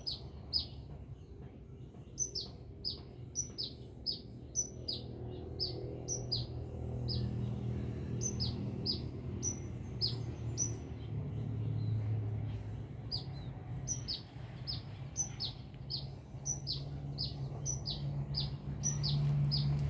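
Sunbird (the bird Indonesian keepers call 'kolibri') singing gacor: a long, rapid series of short, high, downward-sliding chirps, about two or three a second, over a low steady hum.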